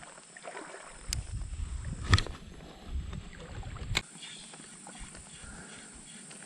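Outdoor handling noise while fishing: a low rumble of movement or wind on the microphone from about one to four seconds in, with sharp knocks about a second in, at two seconds and at four seconds.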